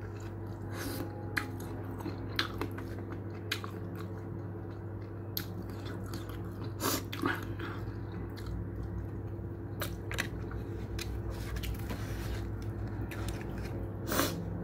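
A person chewing and biting into a shawarma meal close to the microphone, with scattered soft crunches and mouth clicks over a steady low hum.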